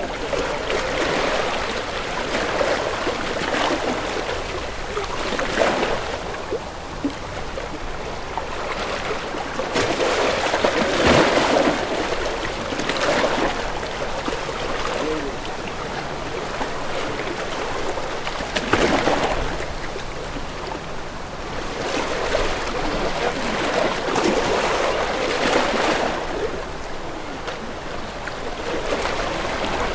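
Sea waves washing in a slow, uneven rhythm, the water noise swelling and easing every two to six seconds.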